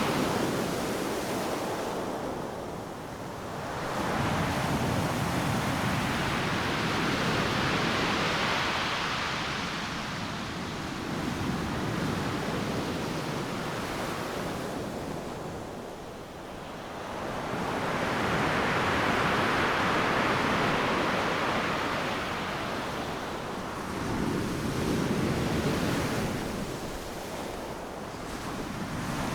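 Ocean surf breaking on a sandy beach: waves crash and wash in slow surges that swell and ease every eight to ten seconds, over a constant roar of surf.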